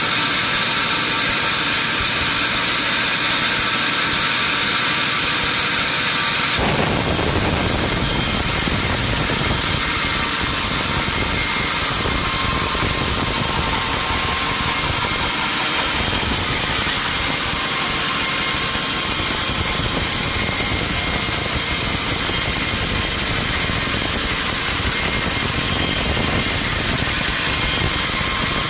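Sawmill machinery running with a loud, steady mechanical noise. About seven seconds in, a deeper sound abruptly joins it and carries on.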